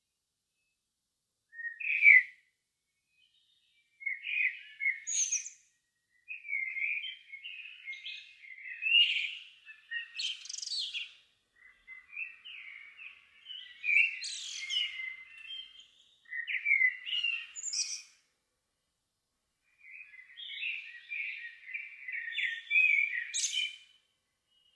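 A songbird singing at dusk in separate warbling phrases with short pauses between them; several phrases end in a brief high-pitched twitter.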